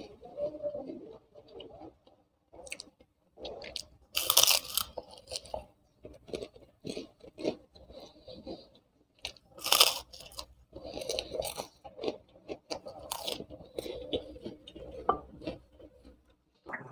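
Close-up crunching and chewing of a crisp kerupuk cracker, the loudest bites about four and ten seconds in.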